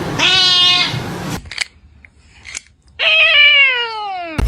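A domestic cat meowing twice: a short, high, steady meow near the start, then after a pause a longer meow that slides down in pitch and ends abruptly.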